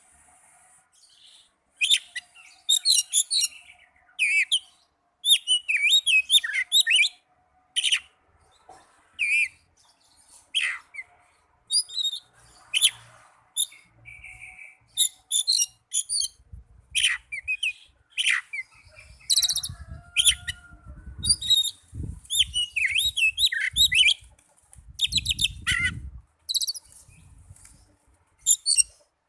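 Oriental magpie-robin (kacer) singing: bursts of rapid, varied whistled phrases mixed with harsh chattering notes, separated by short pauses. This is the song used to provoke a quiet caged magpie-robin into singing.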